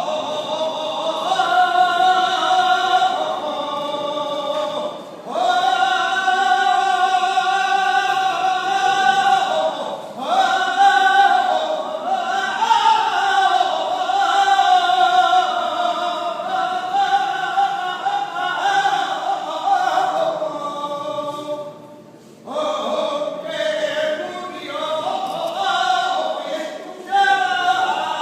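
A saeta, an unaccompanied flamenco-style devotional song, sung solo in long ornamented lines with wavering, bending pitch, broken three times by short pauses.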